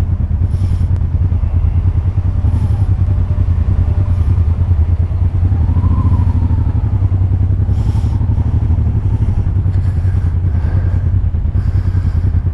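Honda Transalp 600's V-twin engine running steadily under a rider on a dirt track, the pitch rising and falling slightly around the middle, with a few short rushes of noise over it.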